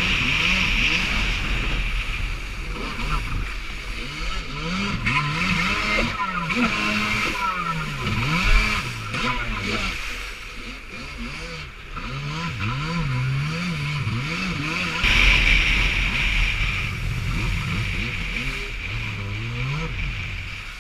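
Jet ski engine running under load, its pitch repeatedly rising and falling as the throttle and revs change, over steady rushing noise.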